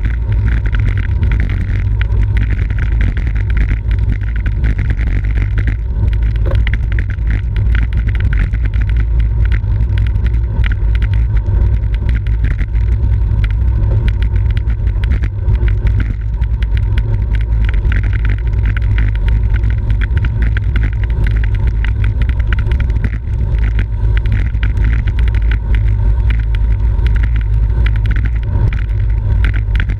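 Wind buffeting a microphone carried along at racing speed on a bicycle: a loud, steady low rumble, with many small clicks and rattles running through it.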